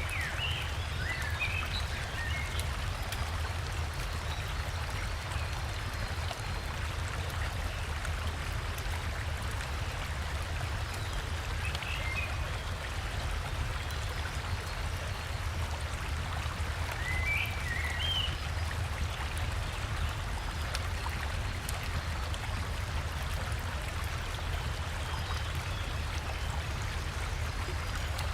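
River water and a waterfall rushing steadily, with a deep rumble underneath. A few short bird chirps break through near the start, in the middle and about two-thirds of the way in.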